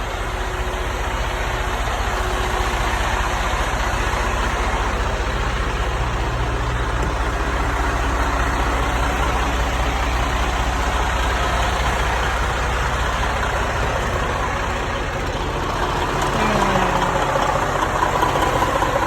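Heavy diesel truck engine idling steadily, a low even hum.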